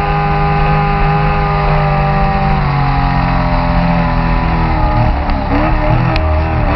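Race boat engine running hard at high revs, heard from on board. The engine note drops a little about halfway through, then wavers up and down near the end as the revs dip and pick up again.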